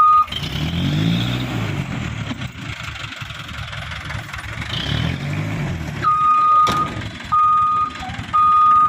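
Hino Dutro dump truck's reversing alarm sounding a steady beep, which stops just after the start while the diesel engine revs up and falls back twice. About six seconds in, the beeping resumes in regular beeps of about a second each, with one sharp knock shortly after it returns.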